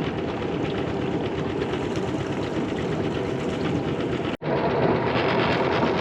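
Small boat's motor running steadily with a fast, even chugging, broken by a momentary dropout a little past halfway.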